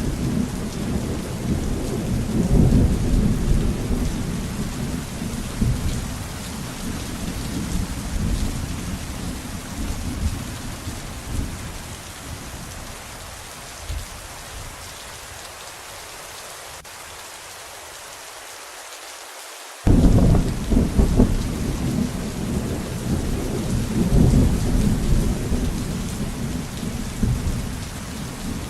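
Steady heavy rain with a deep, rolling thunder rumble. The rumble dies away over about twelve to fifteen seconds, leaving only the rain's hiss, then cuts back in suddenly and loud about twenty seconds in and rolls on under the rain.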